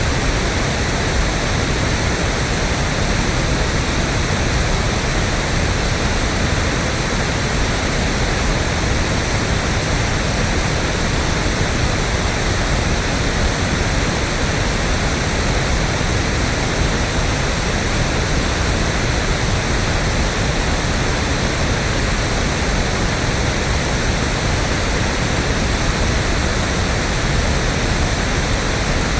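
Electronically generated pink noise: a steady, even rushing hiss, unchanging throughout.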